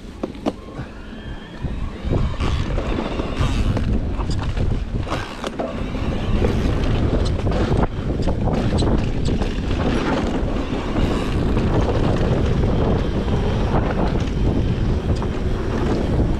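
Wind buffeting the microphone while a mini bike is ridden fast in a race, with scattered rattles and knocks from the bike over the rough ground. The rush of wind builds up about two seconds in and stays heavy.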